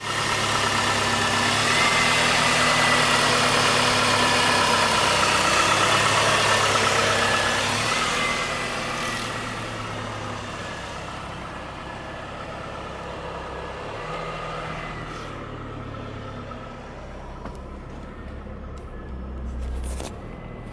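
2002 Chrysler PT Cruiser 2.4-litre four-cylinder engine running on a test run. It is louder for the first eight seconds or so, then settles to a steadier, quieter idle, with a few sharp clicks near the end.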